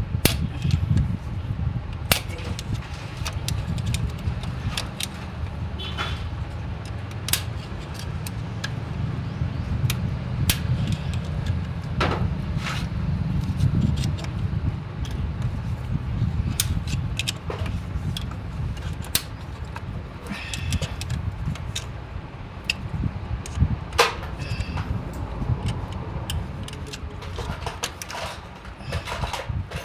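Scattered metallic clinks, taps and knocks of hand tools and loose steel parts being handled during tractor disassembly, over a steady low rumble.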